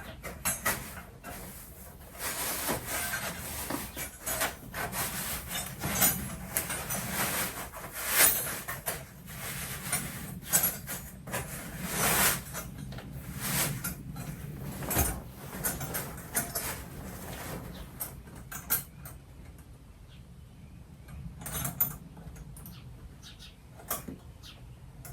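Parts of a Halloween prop being handled and fitted together: irregular scraping and rubbing with scattered clicks and knocks, easing off about two-thirds of the way through.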